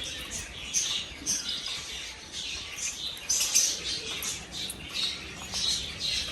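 Pet birds chirping: a busy run of short, high-pitched squeaky calls, several a second and irregular.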